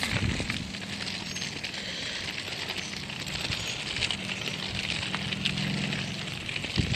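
Outdoor ambience during a walk: a steady hiss with light, irregular taps. A faint low hum comes in about a second in and fades near the end.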